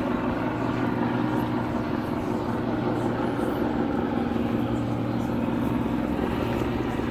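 A steady, low engine drone that holds level throughout.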